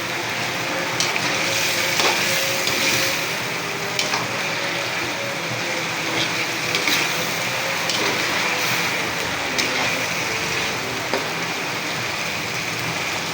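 Egg and potato balado sizzling and frying in a pan as the chili sauce is cooked down until dry, with a few light clicks of stirring against the pan.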